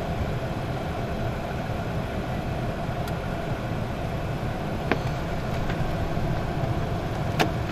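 Car engine idling steadily, with a couple of short sharp clicks, one about five seconds in and one near the end.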